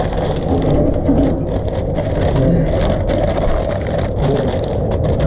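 Steady low rumble of running machinery, with faint scattered clicks and scrapes over it.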